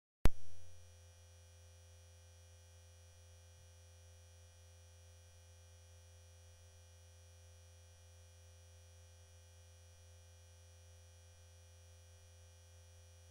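A sudden sharp thump just after the start, then a faint, steady low electronic hum with a few fixed tones and faint regular ticks.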